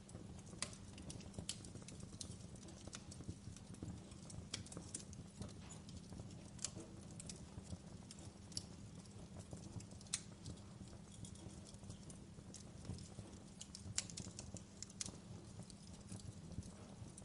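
Wood fire crackling in a fireplace: irregular sharp pops and snaps over a steady low rumble of the flames, with the loudest pops about ten and fourteen seconds in.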